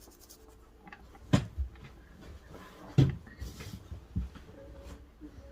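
Two dull knocks about a second and a half apart, with a few lighter knocks after them, as things are handled and set down.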